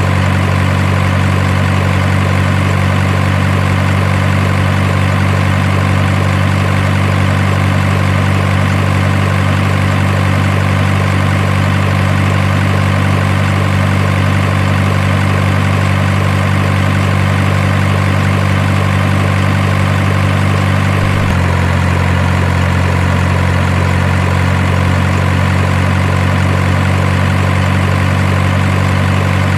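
Truck engine idling sound, a steady, even low hum that shifts slightly in tone about 21 seconds in.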